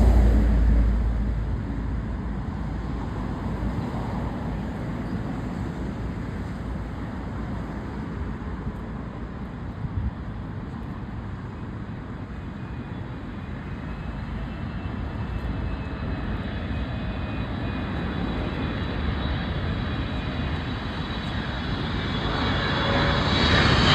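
Jet airliner engines: a steady rumble and rush that is loud at the start and eases off, then swells again near the end as thin, high whining tones come in.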